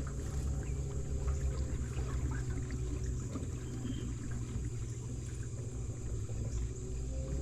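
River water trickling and lapping around a boat, over a steady low hum.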